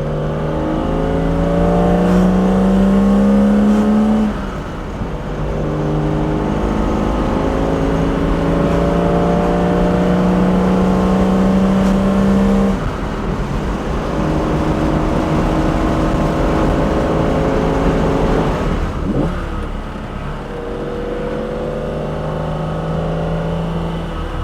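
BMW S38B36 3.6-litre straight-six, breathing through individual throttle bodies and a custom exhaust, pulling hard under acceleration with revs climbing steadily. The revs fall at upshifts about 4 and 13 seconds in, and again briefly near 19 seconds, before climbing once more.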